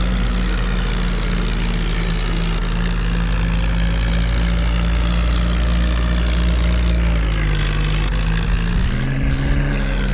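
Tractor engine running steadily, its pitch shifting briefly near the end.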